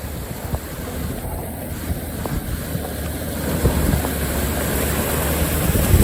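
Off-road vehicle engine running steadily at low revs, with wind rumbling on the microphone; the sound grows louder about halfway through.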